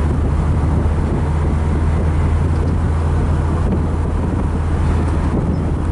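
1991 Lotus Elan's turbocharged 1.6-litre four-cylinder engine running at a steady cruise, with tyre and road noise, heard from inside the cabin.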